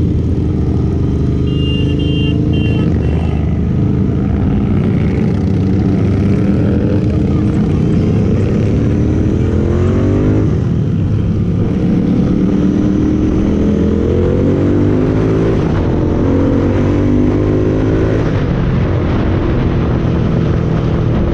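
Motorcycle engine running under way, its pitch climbing as it accelerates and dropping back at gear changes about ten seconds in and again near eighteen seconds.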